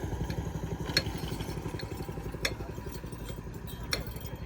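Tractor engine running steadily, with a sharp click about every second and a half.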